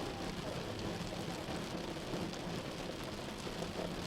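Steady rain falling on a moving car, with scattered drop ticks over a low, even rumble of road and engine noise.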